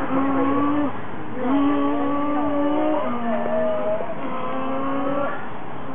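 People imitating car engine noises with their voices: held droning hums, a second or so each, that slide and shift in pitch and sometimes overlap.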